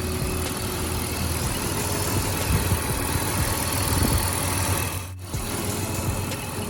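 BMW E39 525i's straight-six engine idling steadily, just after being started, with a short break in the sound about five seconds in.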